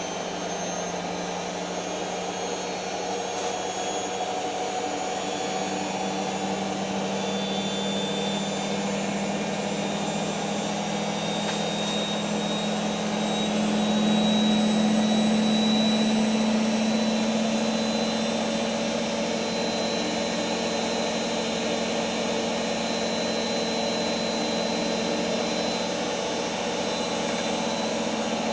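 Creda Simplicity W120VW washing machine spinning, its drum motor giving a steady whine. About halfway through the pitch climbs and the sound swells louder for a few seconds, then settles at the higher pitch as the spin speeds up. The motor is faulty: the owner says it struggles to put power in smoothly.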